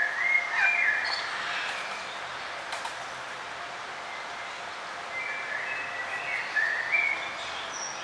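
Songbirds chirping and singing in short phrases over a steady background hiss, with a cluster of calls in the first second and another from about five to seven and a half seconds in.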